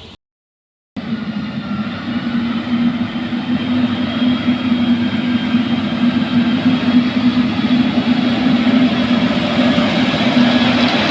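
Engine of heavy road-construction machinery running steadily under load, with a strong low hum and a broad rush that grows slowly louder. It begins abruptly after a brief dead-silent cut.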